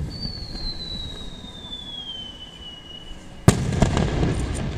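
Fireworks: a shell's whistle, one long high tone slowly falling in pitch for about three seconds, then a loud burst of an aerial shell about three and a half seconds in, followed by a rumbling echo.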